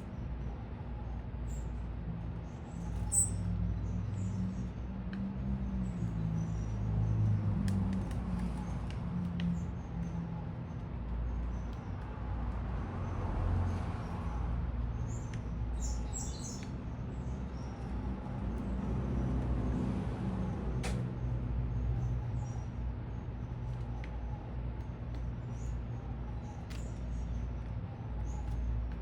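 Small birds chirping at a feeder in short high calls scattered throughout, over a steady low rumble of city traffic that swells twice as vehicles pass.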